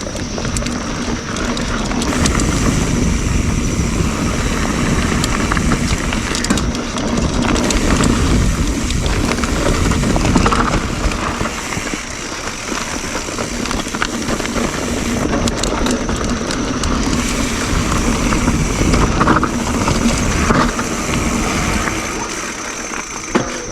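YT Jeffsy mountain bike rolling fast down dirt singletrack: steady tyre and trail rumble with scattered knocks and rattles over bumps, and wind noise on the GoPro's microphone.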